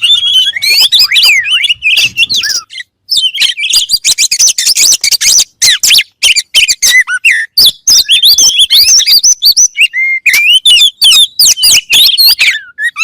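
Oriental magpie-robin (kacer) singing a fast, unbroken run of whistles, trills and chips, loud and close, with one short pause about three seconds in.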